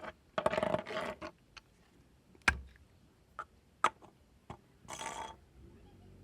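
Handling noises from small hard objects: a rustling shuffle in the first second, a sharp knock about two and a half seconds in, several light clicks after it, and a short scraping hiss near the end.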